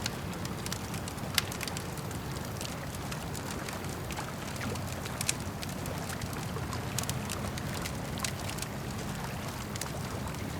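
Campfire crackling, with scattered sharp pops and one louder snap about a second and a half in, over a steady low wash of lake water lapping.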